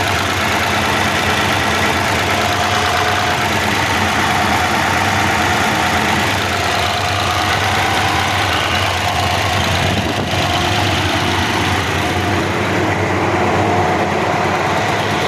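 Cummins 903 V8 diesel engine in a tractor running steadily at idle, shortly after a cold start.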